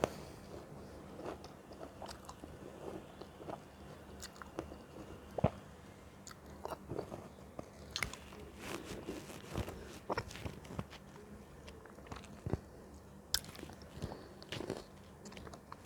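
Close-up chewing and biting of crunchy fruit: irregular crisp crunches and small wet mouth clicks, with a few louder bites.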